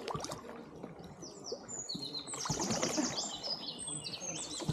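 A songbird singing quick runs of high, sharp notes, many sliding down in pitch, starting about a second in and stopping near the end, over a low wash of background noise with scattered knocks.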